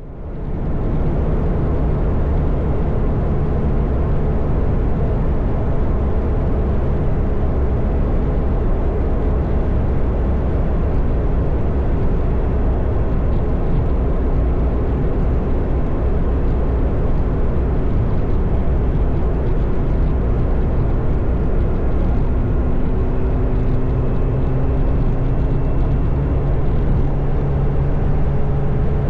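Motorcycle under way at road speed: an engine hum under a steady rush of wind and road noise. The engine note climbs slightly about two-thirds of the way through.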